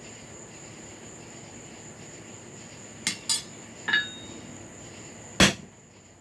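Blacksmith's tools on hot steel: two light taps about three seconds in, a ringing metallic clink a moment later, then one hard hammer blow near the end. A steady high-pitched whine runs underneath.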